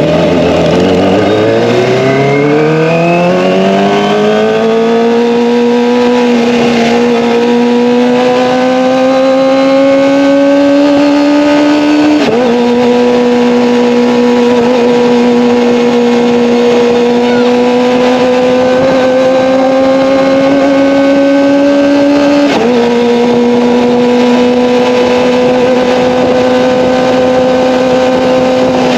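Kawasaki ZX-25R's 249 cc inline-four running through an Akrapovic Evolution exhaust. The engine note rises over the first few seconds, then holds and creeps upward under light throttle, with a quick dip in pitch about 12 and 23 seconds in, like upshifts while riding.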